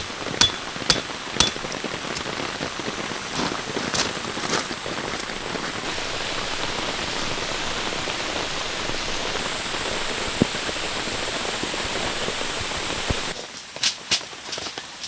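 Rain falling steadily as an even hiss. Three sharp, ringing hammer strikes open it, about half a second apart. Near the end the rain sound cuts off abruptly, leaving a quieter stretch with a few knocks.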